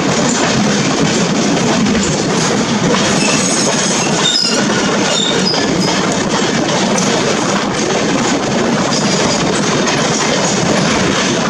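A container freight train's wagons passing close alongside a moving passenger train: a loud, steady rushing rattle and clatter of steel wheels on rails, with a few brief high squeals a few seconds in.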